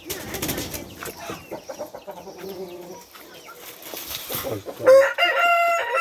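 Chickens clucking and shuffling with a brief burst of rustling and knocks at the start, then a rooster crows loudly about five seconds in, a long held crow that runs on past the end.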